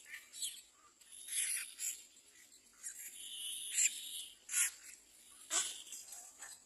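Birds giving a string of short, high-pitched chirps at irregular intervals, with one longer call near the middle.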